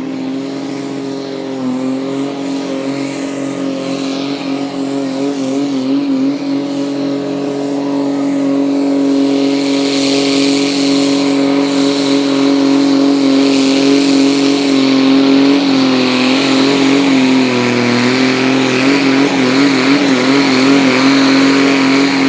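Diesel garden tractor engine held at full throttle while pulling a sled, its pitch steady with brief wavers, growing louder about halfway through. At the end the throttle comes off and the pitch falls away.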